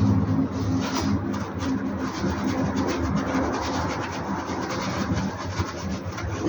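Rasping, rubbing scrubbing sounds of parts on a car's suspension being cleaned. A steady low hum at the start fades away within the first few seconds.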